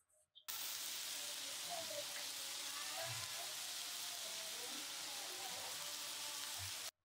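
Oil sizzling steadily around chicken seekh kebabs shallow-frying on bamboo skewers in a non-stick pan over medium-high heat. The sizzle starts abruptly about half a second in and cuts off sharply just before the end.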